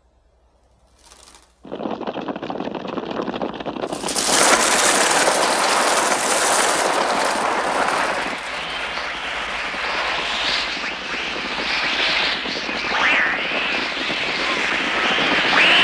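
Synthesized bird-attack effect from a Mixtur-Trautonium: a dense, rapid fluttering clatter of a flock's wings. It starts about a second and a half in, swells loud about four seconds in, and has a few shrill cries near the end.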